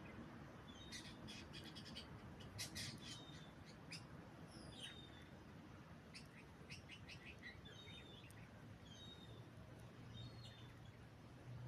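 Faint bird sounds: short high chirps and quick clicks in scattered clusters, some with small downward slurs, over a low steady background rumble.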